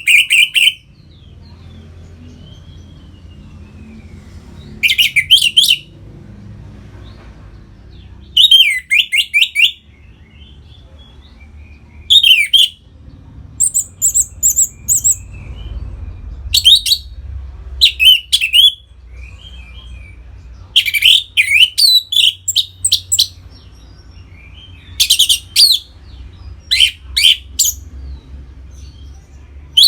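Orange-headed thrush singing loud, varied phrases about a second long, repeated every few seconds, with a few high thin notes among them. A faint steady low hum runs underneath.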